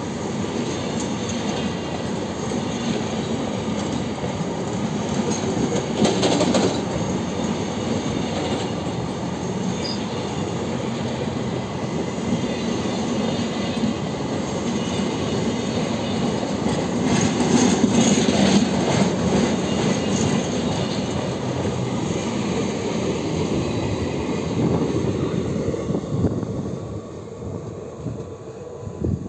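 Flat wagons of a long goods train rolling past close by: steady rumble and rattle of steel wheels on the rails. It swells louder about six seconds in and again for a couple of seconds past the midpoint, then fades near the end as the last vehicle passes and draws away.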